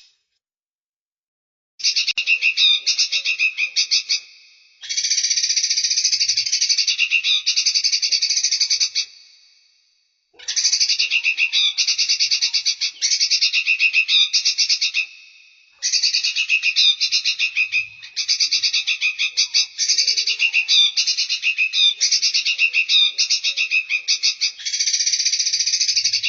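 Recorded songbird calls: rapid, buzzy chattering trills, strongest in a high band, repeated in phrases of about 2 to 10 s with short breaks. They begin about 2 s in, after a silent gap.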